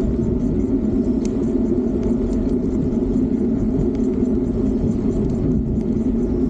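Steady low rumble of wind and road noise while riding a Fiido D3 Pro electric bike.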